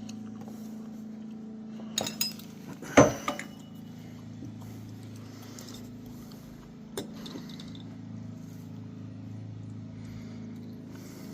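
A few sharp metal clinks of tools and parts being handled during an oil filter change, the loudest about three seconds in and one more near seven seconds, over a steady low hum.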